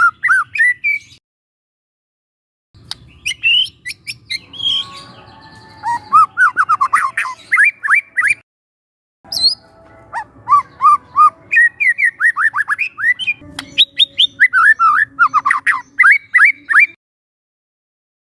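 Young wild white-rumped shama singing: phrases of rapid, repeated downward-sweeping whistled notes mixed with sharp chirps, broken by short dead-silent gaps, the song stopping a little before the end.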